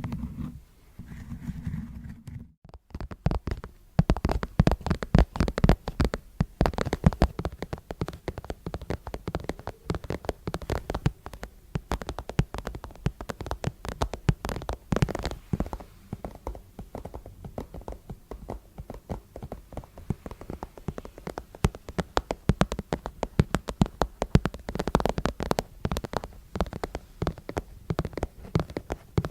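Dense, rapid clicking and tapping sounds, starting after a short break about two and a half seconds in.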